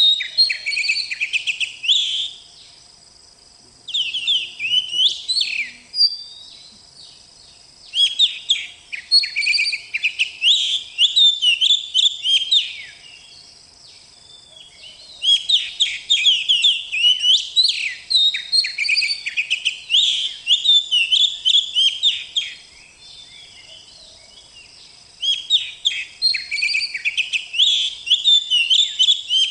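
Oriental magpie-robin (kacer) singing a fast, varied song of chirps and whistles. It comes in bouts of several seconds with short pauses between.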